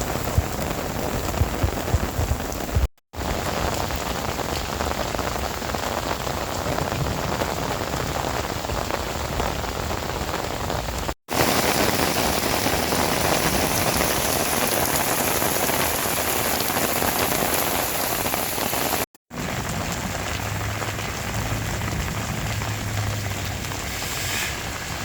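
Heavy rain falling with a steady, even hiss, heard in several stretches broken by brief dropouts to silence about 3, 11 and 19 seconds in.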